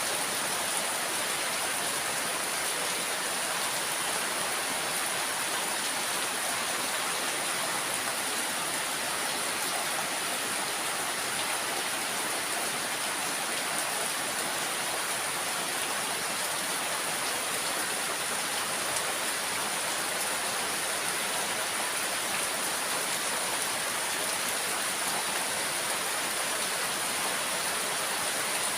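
Steady rain falling, a continuous even hiss with no breaks or single drops standing out.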